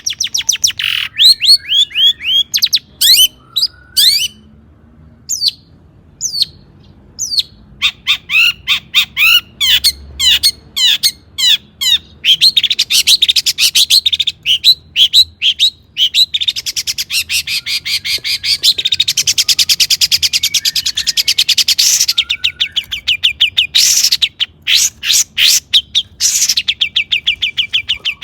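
Long-tailed shrike (cendet) singing: fast chattering runs of repeated notes and slurred down-sweeping phrases, with a harsh scratchy stretch in the middle and a brief pause early on.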